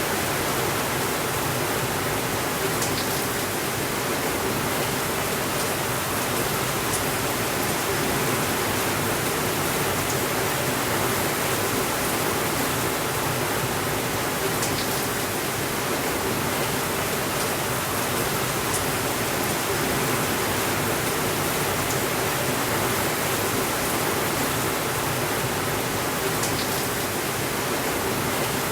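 Steady heavy rainfall, with a few faint sharp ticks now and then.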